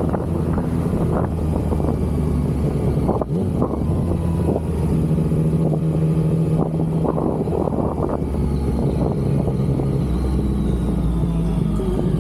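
Yamaha XSR900's inline three-cylinder engine running at a steady pace, with a brief dip in level about three seconds in.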